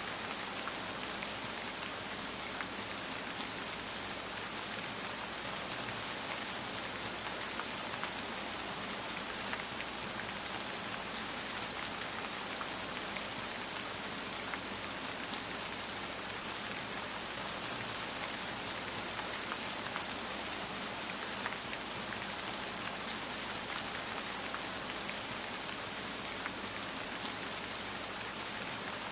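Steady rain falling on a surface, an even hiss with many small individual drops pattering through it.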